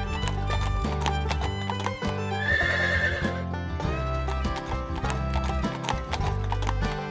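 Recorded horse sounds, hooves clip-clopping and a whinny about two and a half seconds in, over background music.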